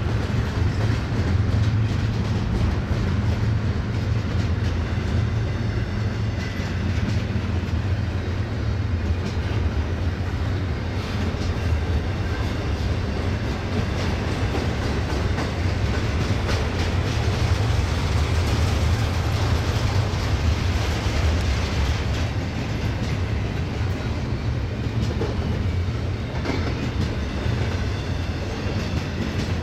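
Double-stack container well cars of a freight train rolling past: a steady low rumble of steel wheels on the rails, with the clickety-clack of wheels over rail joints.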